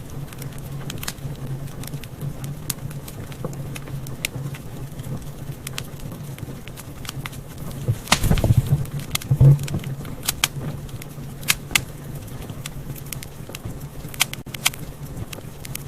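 Wood fire in a fireplace crackling, with irregular sharp pops over a steady low hum. About halfway through, a louder low rush lasts a second or so.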